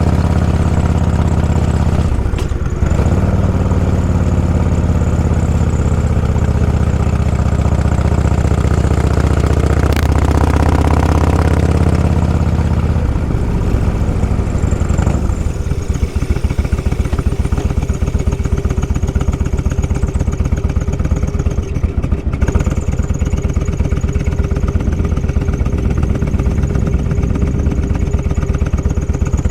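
Motorcycle engine running at low road speed, steady and loud; about 13 seconds in its sound changes to a rapid, even low pulsing.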